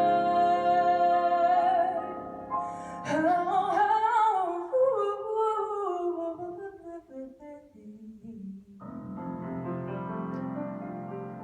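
Female voice holding a long note with vibrato over grand piano, then a wordless vocal line falling slowly with the piano dropped out. Near the end a final grand piano chord comes in and rings out, fading.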